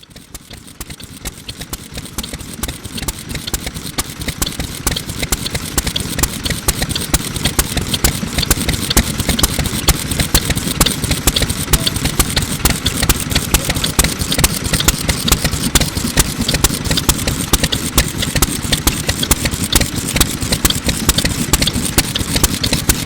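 Circa-1950 MIKAWA 2 hp oil engine running at a steady beat, its exhaust popping sharply through a small muffler. The sound grows louder over the first several seconds, then holds steady.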